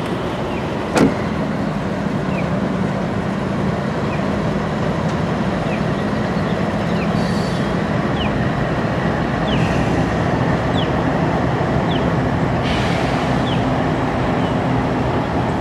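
Norfolk Southern freight train's diesel locomotives running steadily as the train rolls across a bridge, with one sharp knock about a second in.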